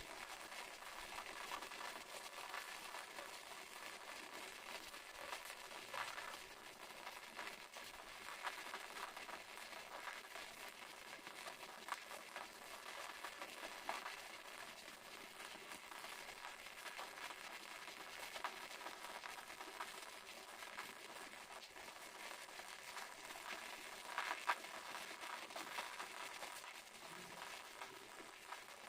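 Waterfall: falling water splashing as a faint, steady hiss, with a few brief louder clicks, the sharpest about 24 seconds in.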